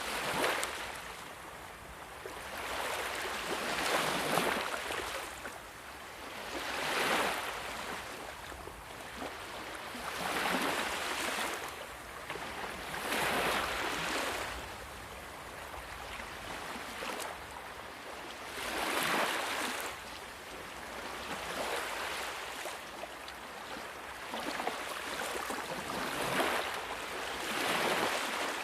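Ocean waves washing onto a shore, each surge of surf swelling and fading every three to four seconds over a constant hiss of water.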